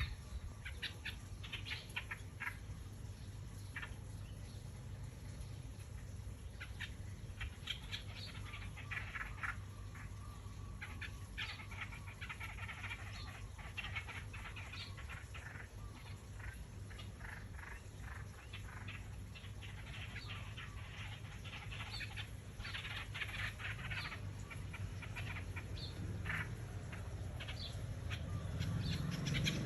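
Small birds chirping, with short high chirps repeated again and again, over a steady low hum. A low rumble grows near the end.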